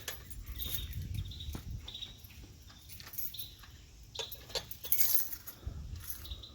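A pigeon loft door being unlocked and opened: scattered metal clicks and rattles from the lock and latch, with short high squeaks.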